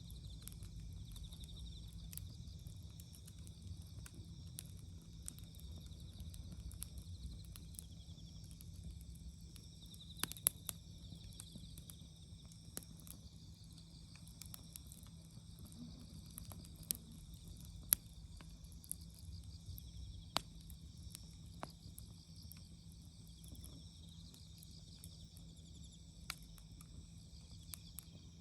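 Wood campfire crackling, with scattered sharp pops, a few standing out loudly. Behind it, autumn insects chirp steadily and high.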